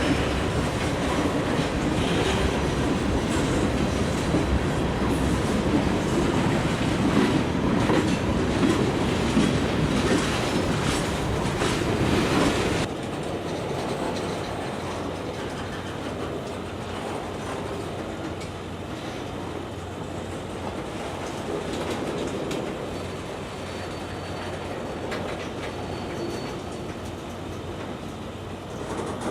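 CSX freight train rolling past, its wheels clicking over the rail joints. About thirteen seconds in the sound drops abruptly to a quieter rolling rumble.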